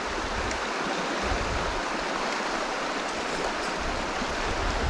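Steady rush of creek water flowing over riffles, close to the microphone.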